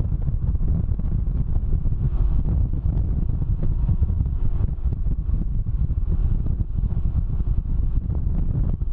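Wind buffeting the microphone on a riding Can-Am Ryker, a steady heavy rumble, with the three-wheeler's engine running faintly underneath.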